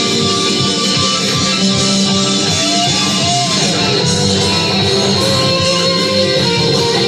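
Rock music with electric guitar playing continuously, one guitar note bending up and back down about three seconds in.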